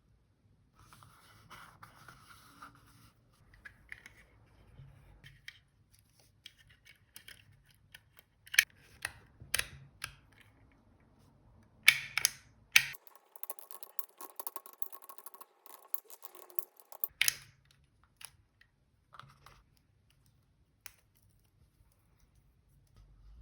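Close-up paper-crafting sounds of diary decorating: scattered sharp clicks and snips, loudest around the middle, then a few seconds of steady rustling, then a few more light clicks.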